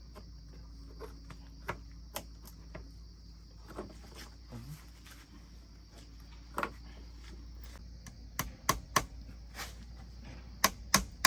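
Irregular sharp knocks and taps, coming in quicker clusters near the end, over a steady high insect drone.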